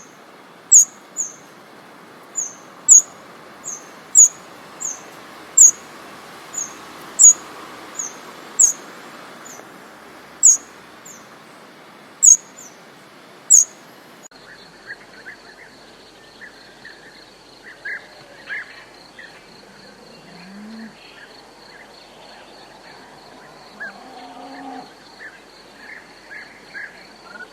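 A small bird repeating a sharp, very high call, one note about every second, loud and close. About halfway through, the sound changes to a steady high insect drone with softer chirping calls over it.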